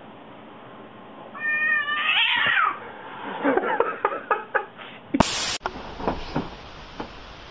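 Cat yowling at its own reflection in a mirror: a drawn-out, wavering caterwaul lasting about a second and a half, then a string of short, choppy cries. About five seconds in, a brief, loud burst of hiss, the loudest thing in the clip, cuts across.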